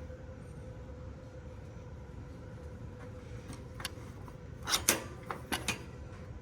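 Steady low background rumble with a faint steady hum, broken near the end by a short cluster of sharp clicks and clacks.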